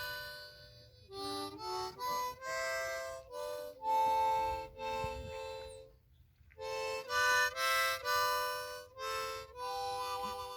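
Harmonica playing a slow tune of separate held notes, with a short break about six seconds in.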